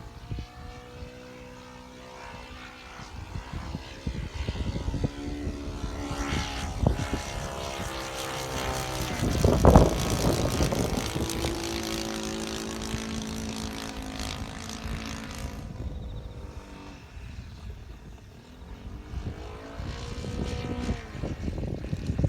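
A radio-controlled Spitfire model's O.S. GF40 four-stroke petrol engine and propeller running in flight. Its pitch shifts as the plane comes and goes, and it is loudest as it passes close about ten seconds in. Strong wind buffets the microphone throughout.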